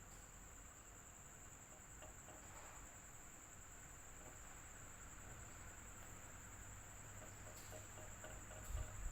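Electric fan running faintly: a steady high-pitched whine over a low hum. A brief low thump comes near the end.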